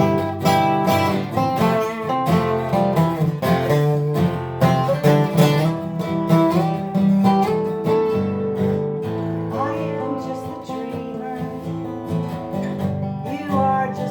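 Acoustic guitar strumming and picking an instrumental passage of a song, with notes ringing on steadily throughout.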